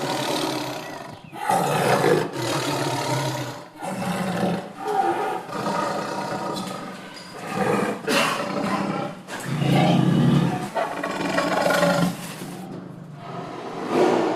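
A run of loud wild-animal calls, each lasting a second or two, following one another with short gaps.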